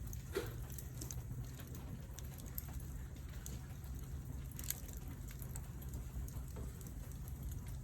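Wood campfire burning on a stainless steel mesh fire sheet: scattered crackles and small pops over a low steady rumble.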